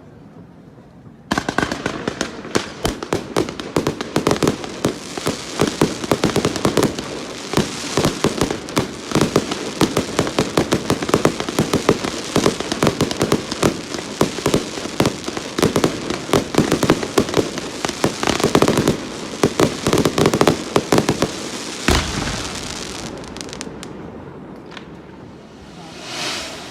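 Fireworks display: about a second in, a dense barrage of rapid bangs and crackling sets off and keeps going, with one heavy low bang near the end before it thins out.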